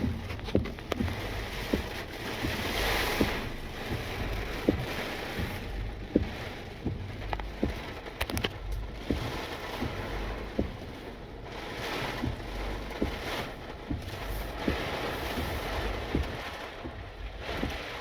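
Gusting storm wind of Hurricane Idalia blowing on the microphone, swelling and easing every few seconds, with frequent irregular low thumps.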